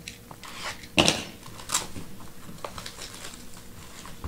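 Scattered handling knocks and clicks of things being moved about on a table, the loudest about a second in.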